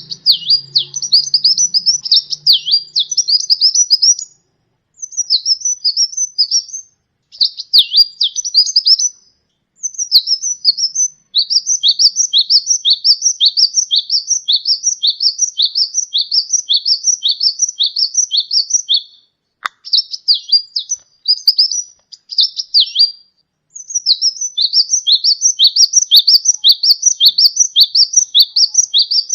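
Sunbird singing: long runs of high, quickly repeated, sharply falling chirps, broken by short pauses, with a single sharp click about two-thirds of the way through.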